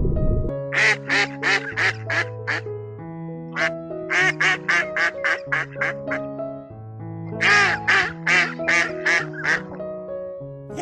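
An animal, most likely a bird, giving three runs of short, harsh calls at about four a second, over background music with steady, sustained notes.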